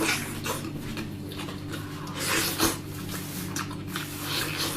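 Close-up eating sounds: wet chewing and gnawing of meat off a large bone, with irregular squishy smacks and rasps over a steady low hum.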